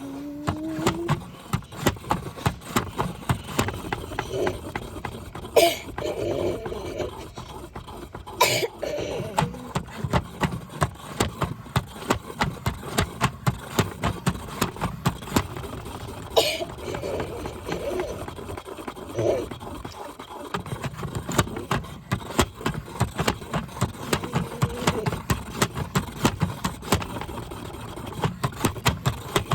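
Washing machine running, with a rapid, uneven knocking and rattling throughout.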